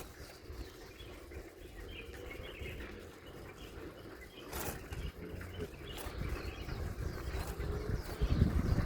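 Small birds chirping and twittering in short scattered calls, over a low rumble on the microphone that grows louder near the end.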